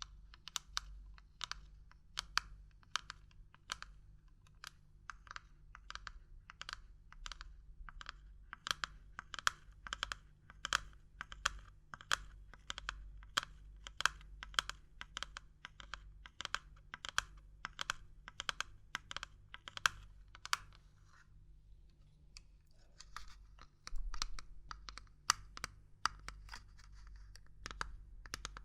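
Quick light taps on hard objects, several a second, like ASMR knocking. They stop about 21 seconds in, give way to brief scratching with a soft bump, then start again.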